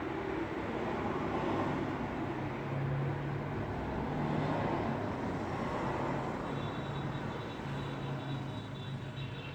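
Road traffic: vehicles passing, a steady wash of tyre and engine noise that swells and fades, with a low engine hum. A faint high-pitched tone joins about two-thirds of the way through.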